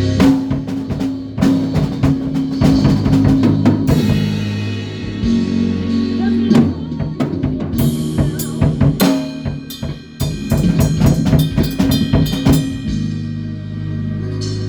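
Band playing: a drum kit hitting hard and busily over held low bass notes, with a short dip in the playing around two-thirds of the way through.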